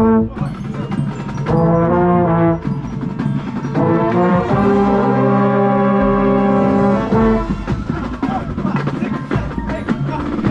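Marching band brass playing loud held chords: two long swells, the longer about three seconds, with drums and percussion carrying on beneath and taking over near the end.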